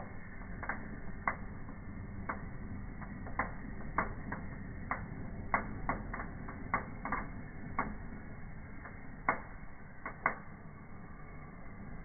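Fireplace fire crackling: irregular sharp pops, one or two a second, over a faint steady low rush.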